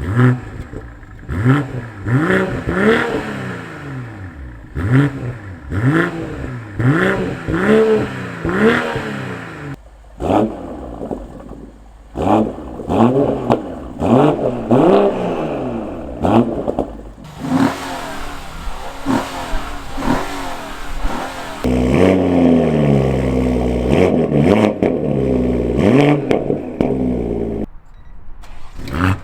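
BMW M340i's turbocharged 3.0-litre inline-six revving through its exhaust: a quick run of rev blips, about one a second, each rising and falling, with a brief break about ten seconds in. Later comes a longer stretch of steady running, strongest from about two-thirds of the way through until near the end.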